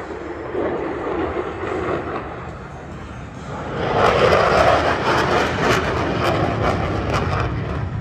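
F-16 Fighting Falcon's jet engine noise, growing much louder about halfway through and staying loud with a crackling edge.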